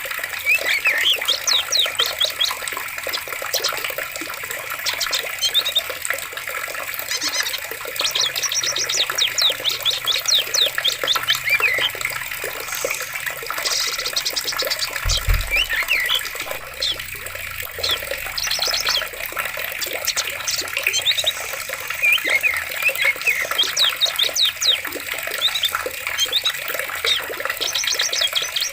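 Running water with a steady rush, and birds chirping in quick repeated trills throughout. A brief low thump about halfway through.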